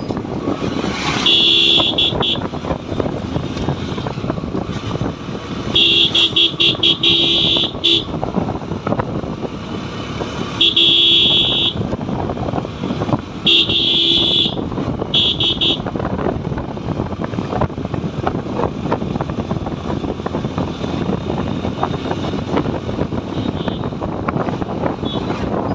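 Motorcycle riding with steady engine, road and wind noise, and a horn honked in five bursts, some long and some broken into quick taps, during the first fifteen seconds, followed by steady riding.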